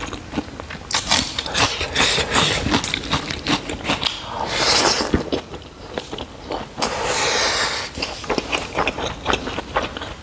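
Close-miked eating sounds: wet chewing and mouth clicks as raw onion and rice with pork are bitten and chewed. There are two longer scraping noises, about four and a half and seven seconds in, as fingers gather rice across the metal tray.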